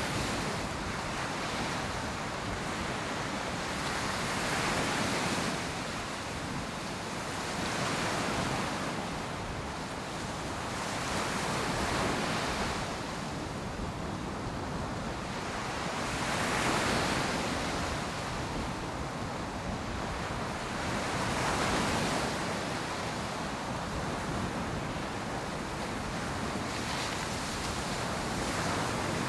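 Ocean surf breaking and washing on a beach, a steady hiss of water that swells every four to five seconds as each wave comes in, with some wind on the microphone.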